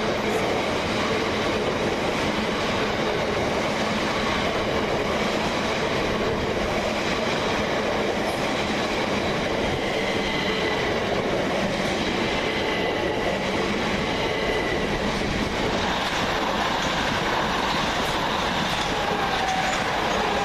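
Two coupled Southern Class 377 electric multiple units running through the station: a steady, loud rumble of wheels on rail, with faint whining tones, some of them falling in pitch near the end.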